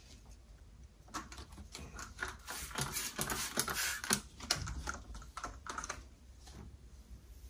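Rapid light clicking and tapping mixed with some rustling, busiest in the middle and thinning out near the end.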